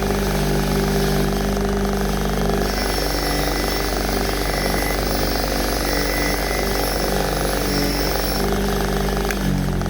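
Motor-driven power tool running steadily under load, as it would while cleaning a cast-iron cylinder head, its pitch shifting about a third of the way in and again near the end.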